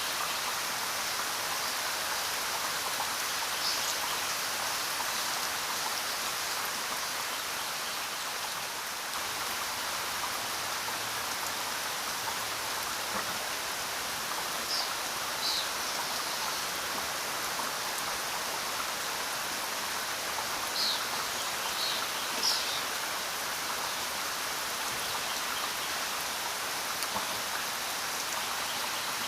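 Steady rain falling, an even hiss of drops, with a few brief high-pitched blips around the middle.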